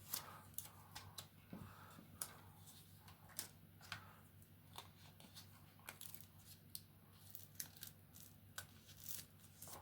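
Faint, scattered crackling and ticking of a thin plastic protective film being peeled off the LED eye pieces.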